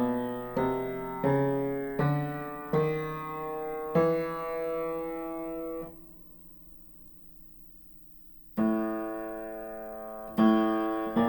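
Aldrich spinet piano played one note at a time in its middle register, each note struck and ringing as it fades. About six notes come in the first six seconds, the last one held and then cut off; after a pause of a couple of seconds, a few more notes follow.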